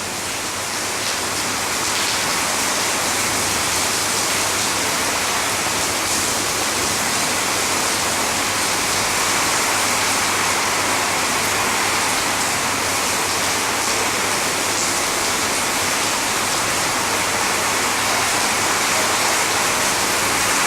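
Heavy rain falling steadily, an even hiss that swells slightly over the first couple of seconds.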